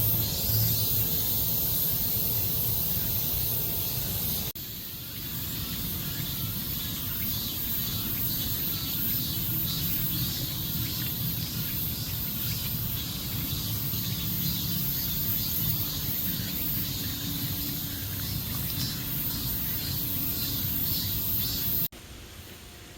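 Summer insects, a high steady drone with quicker pulsing chirps running through it, over a low rumble that comes and goes. The sound changes abruptly twice, about four and a half seconds in and near the end.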